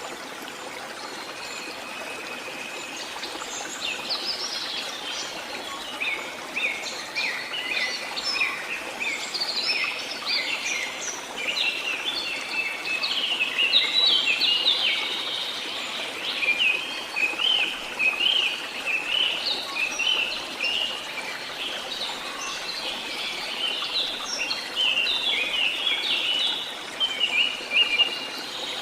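Songbirds singing: many quick chirps and trills over a steady background hiss of running water.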